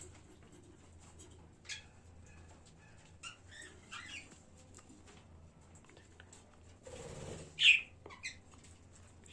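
Budgerigars in a colony giving scattered short chirps, with one loud sharp call about three-quarters of the way through.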